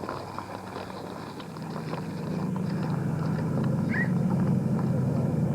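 A motor vehicle engine running with a low, steady hum that grows louder over a couple of seconds, as if it is coming closer, then holds.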